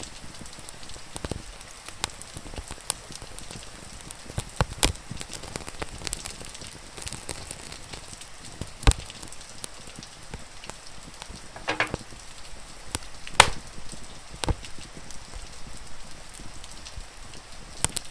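Wood fire crackling, with scattered sharp pops, the loudest about nine and thirteen seconds in, over a steady hiss of rain.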